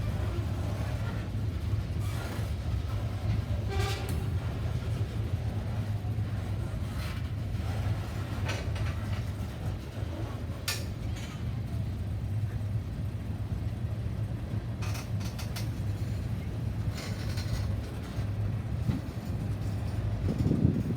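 A train rolling past, its cars giving a steady low rumble with scattered sharp clicks from the wheels on the rails.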